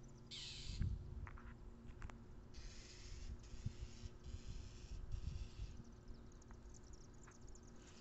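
A territorial bird's harsh, raspy screeching calls, about five in a row, each under a second long, as it defends its spot against a person close by. Some wind rumble on the microphone.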